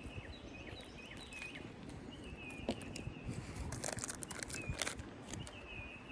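Small birds chirping repeatedly in the background, short high chirps with slight pitch bends. A brief cluster of crackling clicks comes about three to five seconds in.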